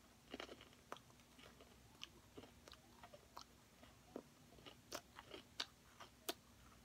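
Faint, irregular crunching and clicking of someone chewing a Hershey's S'mores Cruncher, a milk-chocolate-coated bite of graham cracker and mini marshmallow. The crunches come closer together and grow louder after about five seconds in.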